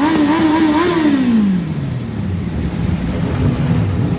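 Superbike engine revved in quick repeated throttle blips, its pitch rising and falling a couple of times a second; about a second in the revs fall away and it drops to a lower, rougher running.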